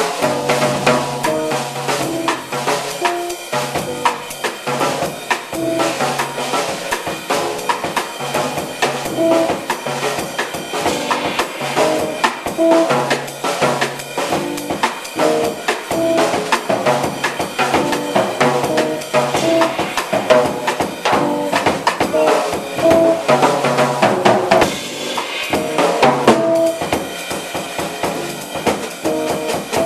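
A five-piece band playing: two tenor saxophones carry the melody over guitar, bass and a busy drum kit, with the drums prominent throughout.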